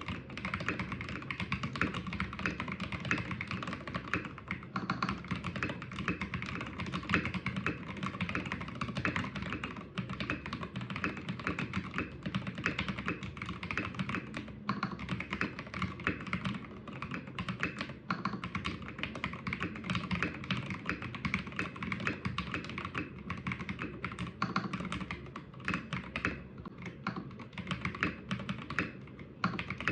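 Continuous fast typing on a mechanical keyboard with Cherry MX Black linear switches (2014 retooled version), fitted with KTT Sea Salt Lemon switch spacers: a dense, uneven stream of key clacks.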